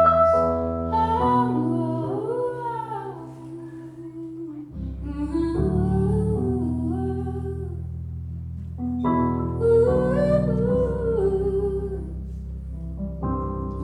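Live band music between sung lines of a song: a wordless, humming-like melody gliding over steady bass, dipping quieter about four seconds in before the band comes back in full.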